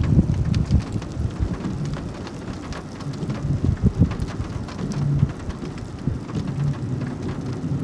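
Thunderstorm rain falling hard, with many separate drops ticking on a surface over a steady low rumble.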